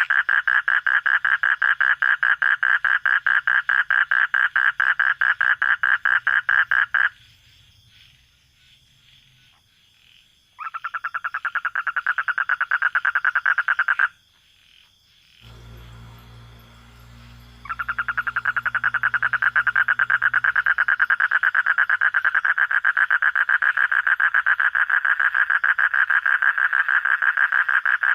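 A frog calling close by: a loud, rapid, even train of pulsed croaks. It breaks off about seven seconds in, resumes briefly, pauses again, then runs on steadily. A low hum sounds during the second pause.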